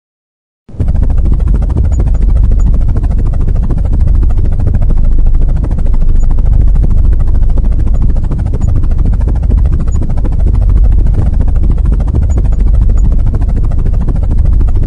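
Small DC motor of a homemade plastic-bottle toy helicopter running its rotor at full speed: a loud, steady noise that starts suddenly under a second in and cuts off at the end.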